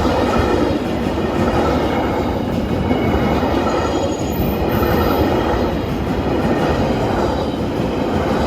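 Electric passenger train running past at a level crossing: a loud, steady rumble of steel wheels on the rails, with some wheel squeal.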